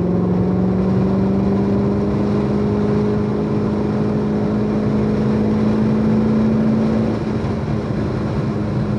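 A C7 Corvette Z06's supercharged 6.2-litre V8 heard from inside the cabin under load on track, its note climbing slowly for about seven seconds and then holding and dropping slightly in loudness, over a steady roar of tyre and wind noise.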